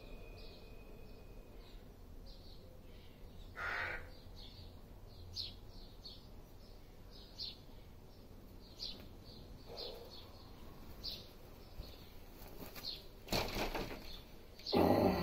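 Small birds chirping repeatedly in short, high notes. Near the end, louder rustling and brushing of clothing and body as a man kicks up into a handstand on the paving.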